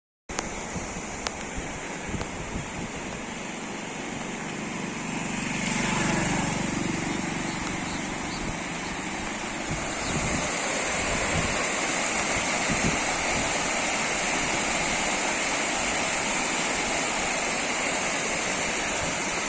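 Steady rush of a swollen river in flood after heavy rain, with a louder swell about six seconds in.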